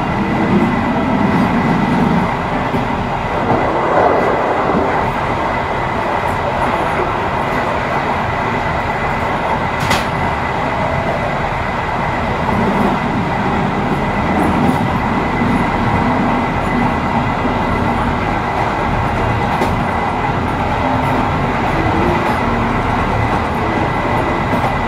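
Train running along the track: a steady rumble of wheels on rails, with a single sharp click about ten seconds in.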